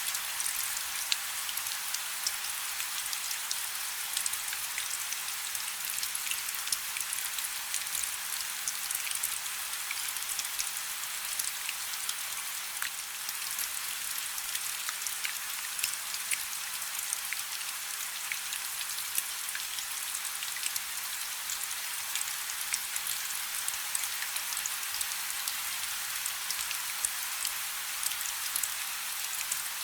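Steady rain falling on a river's surface, a dense hiss with many small drop ticks and little low rumble.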